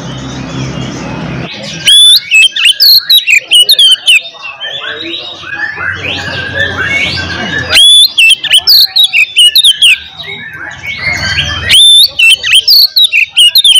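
Oriental magpie-robin (kacer) singing loudly: bursts of sharp whistled notes with quick rising and falling slides, in three loud runs with softer chattering phrases between.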